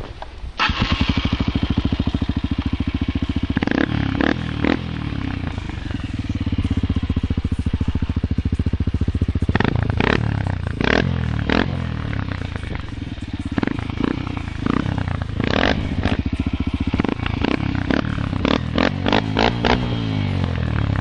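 Honda XR125's single-cylinder four-stroke engine through a Sharon aftermarket exhaust, idling and revved with the throttle blipped several times. Near the end comes a quick run of short, repeated throttle blips.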